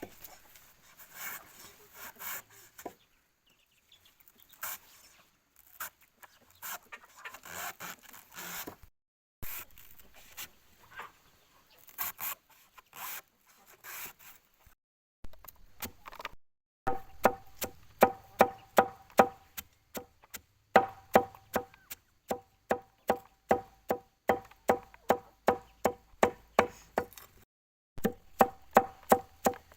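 Chickens clucking among scattered rustling and knocks, then from about halfway a steady run of sharp chopping strikes on wood, about three a second, each with a short ringing tone.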